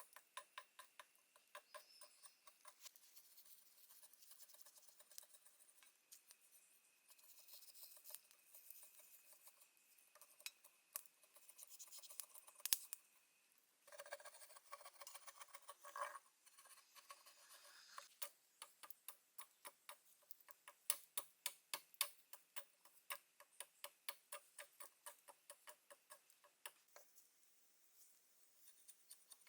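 Quiet, irregular series of light clicks and taps, at times several a second, with a denser stretch of scraping or rustling about halfway through and a faint steady high tone during parts of the first half.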